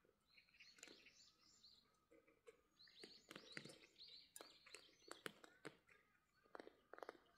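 Faint chirping of small birds, many short repeated chirps, with a few sharp faint clicks in the middle.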